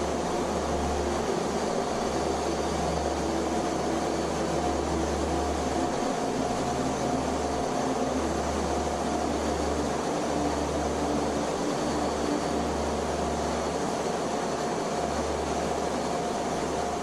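Steady jet aircraft noise: an even rushing hiss with a few faint steady tones and a low hum under it.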